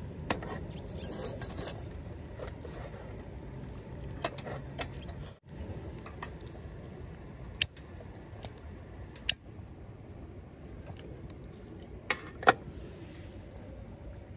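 Campfire cooking sounds: a steady background rush with a few sharp, separate clicks and clinks, two of them close together near the end.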